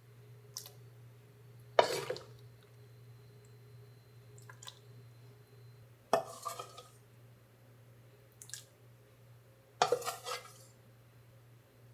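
Dishes and kitchen utensils clattering: three sharp knocks with short ringing tails, about two, six and ten seconds in, with a few lighter clinks between them.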